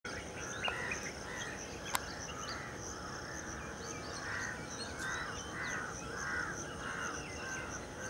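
Birds calling outdoors: a run of repeated mid-pitched calls over a steady high-pitched chirping that pulses about three times a second. Two sharp clicks come in the first two seconds.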